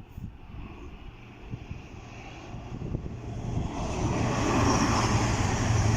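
A train approaching along the line, its rumble and rushing noise building steadily louder over a low hum and loudest near the end.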